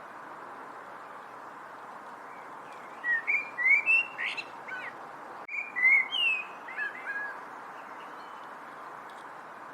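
A songbird singing two quick phrases of slurred, whistled notes, starting about three seconds in, over a steady background hiss.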